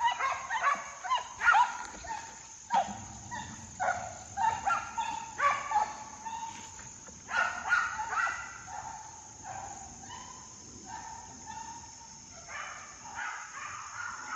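Dogs barking over and over in short, pitched calls while chasing a deer, with a steady high insect drone behind them.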